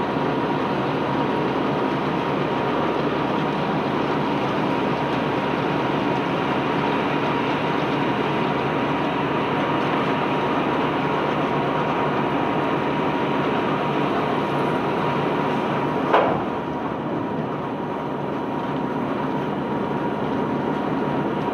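Ship's sand-unloading conveyor belt machinery running with a steady dense rumble and a constant whine, with one sharp knock about three-quarters of the way through.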